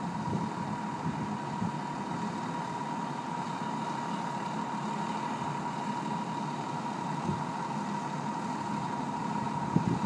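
Fire engine's diesel idling steadily, with a thin steady high tone above the low hum.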